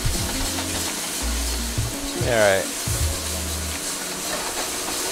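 Garlic, ginger and green-onion whites sizzling in hot oil in a wok alongside chicken, stirred and tossed with a metal wok spatula.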